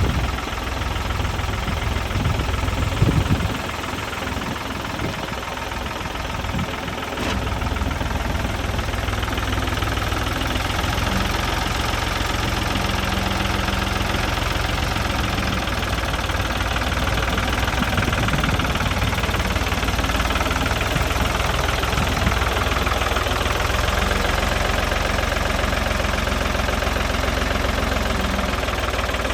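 Ford Force 3000 tractor's three-cylinder diesel engine running steadily at idle with a diesel knock, with a few louder thumps about three seconds in.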